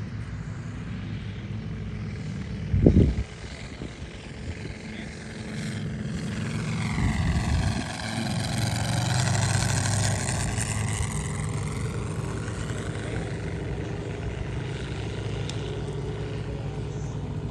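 Large-scale radio-controlled model airplane, landing gear down, passing low on approach; its engine noise swells toward the middle and the tone sweeps down and back up as it goes by. A brief loud thump about three seconds in.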